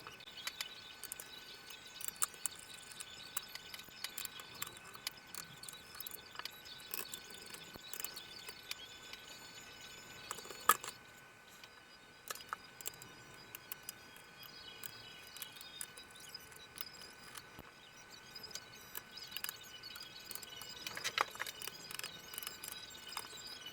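Scattered light clicks and taps of hands and small tools working on the plastic housing and screws of a Dell Inspiron 24 5400 all-in-one PC during disassembly, with one louder knock about ten seconds in.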